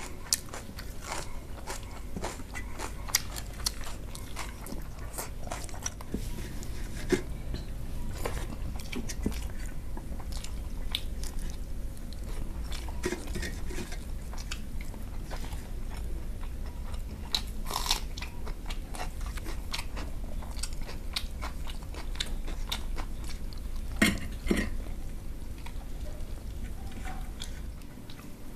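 Close-miked chewing and biting of chicken curry and rice, with many irregular wet mouth clicks and crunches over a low steady hum.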